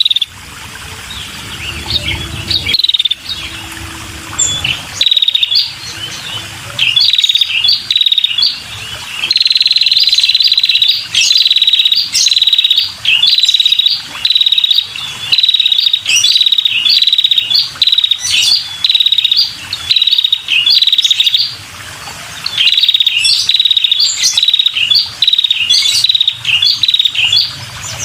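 Female prinia (prenjak) calling: rapid series of high, sharp chirps in bursts, with a longer unbroken trill about a third of the way through. This is the lively female call used to lure male prenjak.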